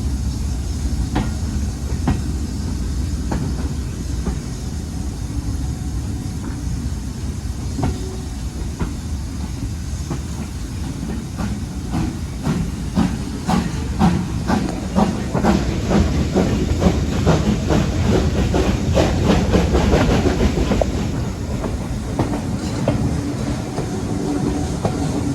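Steam-hauled train on a heritage railway running by with a steady low rumble. From about twelve seconds in, the wheels clicking over the rail joints come thicker and louder, then thin out again after about twenty seconds.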